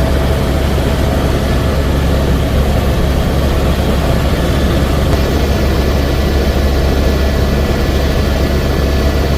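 Helicopter in flight: a loud, steady drone of engine and rotors, with a strong, even low hum.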